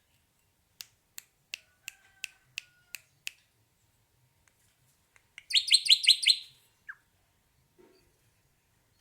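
Hair-crested drongo calling: a string of about eight sharp metallic clicks, then a loud, fast chatter of about seven high notes and one short falling note.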